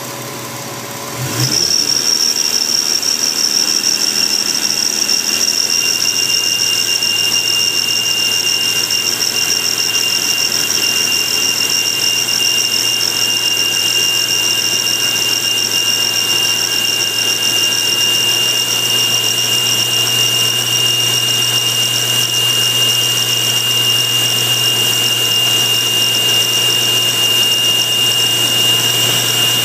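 Supercharged Subaru H6 engine running, getting louder about a second and a half in and then holding steady with a constant high-pitched whine.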